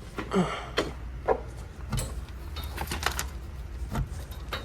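Several sharp knocks and clatters, unevenly spaced over a few seconds, over a low steady hum.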